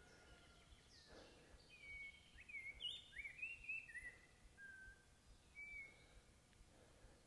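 Faint birdsong: a quick run of short, curving chirps in the middle of the stretch, over a low background hiss.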